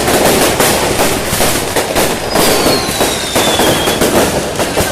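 Fireworks and firecrackers going off in a dense, continuous barrage of bangs and crackles, with a high whistle that falls in pitch about halfway through.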